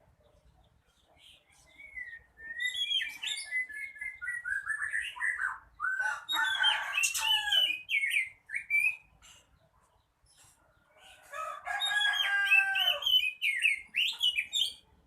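Oriental magpie-robin singing: two long, varied phrases of clear whistled notes that sweep quickly up and down, the first starting about two seconds in and the second after a pause of about two seconds.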